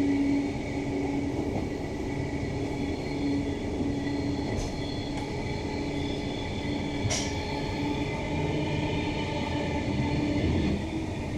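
Queensland Rail NGR electric multiple unit, a Bombardier-built six-car set, running at speed, heard from inside the carriage: a steady rumble of wheels on track with a low hum and faint high whine. Two sharp clicks come about four and a half and seven seconds in.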